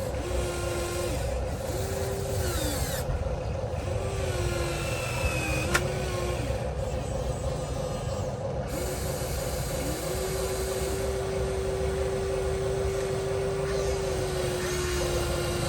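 Whine of an RC excavator's electric hydraulic pump on a 1:14-scale Huina model. It comes in five short spells of about a second each, then one long run of about seven seconds near the end, each spell rising in pitch as it starts and dropping as it stops. A steady mechanical hum runs underneath, with a single sharp click about six seconds in.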